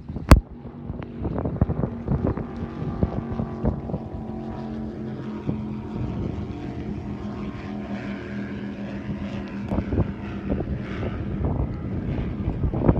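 A boat's engine running steadily, a low even hum. A single sharp click just after the start is the loudest moment.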